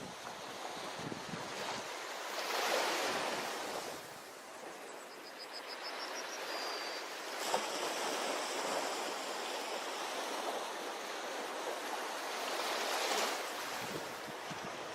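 Ocean waves washing onto a beach, a continuous surf hiss that swells as a wave breaks about two to three seconds in and again near the end. A brief run of high chirps is heard in the middle, and a single click follows about halfway through.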